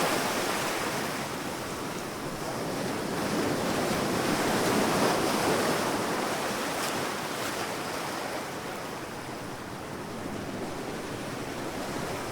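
Sea waves washing onto a sandy shore: a steady rush of surf that swells about five seconds in, then slowly ebbs away.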